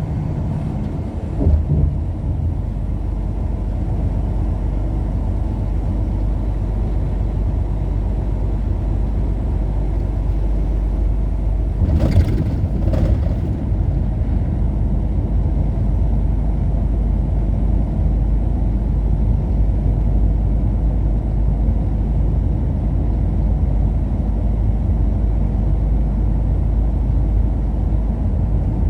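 Steady rumble of a car driving at road speed, tyre and engine noise, with a brief louder rush about twelve seconds in.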